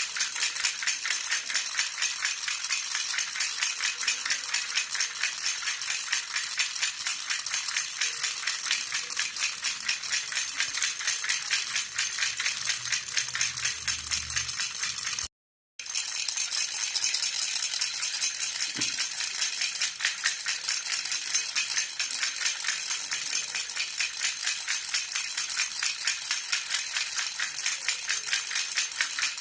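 Jhunjhuna baby rattle shaken continuously in a fast, even, jingling rattle. It cuts out for about half a second just past halfway, then carries on.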